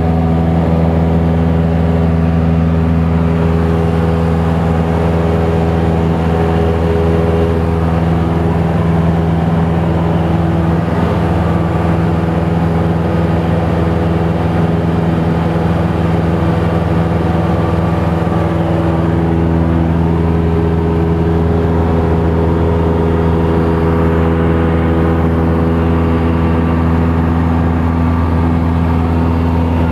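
Light aircraft's piston engine and propeller running at a steady, even drone, holding nearly the same pitch throughout.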